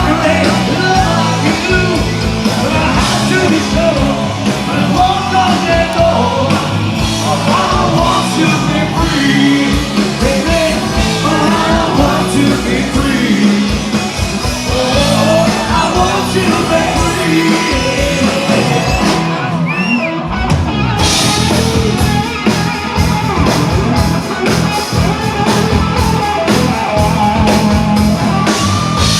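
Rock band playing live, with singing and shouted vocals over guitars and drums; the band drops out briefly about twenty seconds in.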